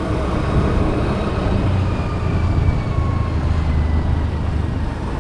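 Motor vehicle engine and road noise: a steady low rumble with a faint, slowly falling whine.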